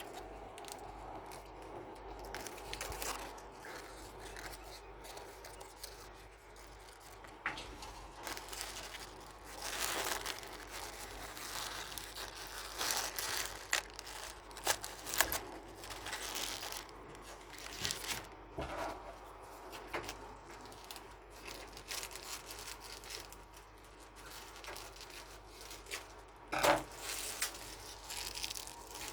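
Paper being handled by hand: irregular rustling and crinkling with scattered snips and tearing, louder strokes about ten, fifteen and twenty-seven seconds in.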